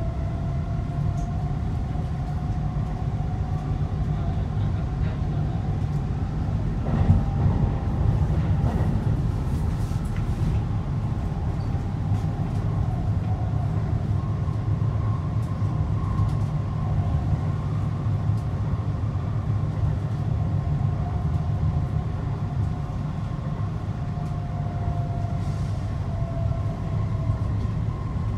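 Vancouver SkyTrain Canada Line train running at speed, heard from inside the front car: a steady low rumble with a faint high whine that drifts slightly in pitch, and a single brief knock about seven seconds in.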